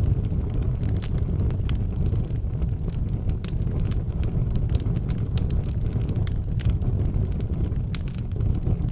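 Wood fire burning in an outdoor fireplace: a steady low rumble with frequent sharp crackles and pops scattered throughout.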